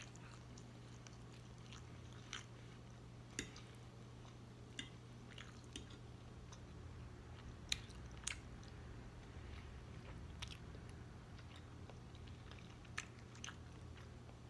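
Quiet chewing of soft scrambled eggs, with scattered sharp clicks of a metal fork against the plate, the loudest a little under halfway through.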